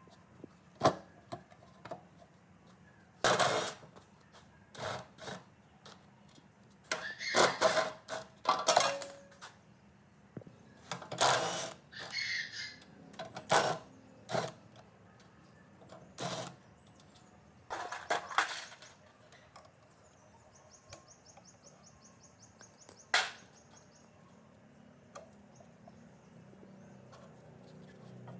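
Scattered knocks and clinks of hand tools on metal parts, some loud and sharp, with a short fast rattle of ticks about three-quarters of the way through.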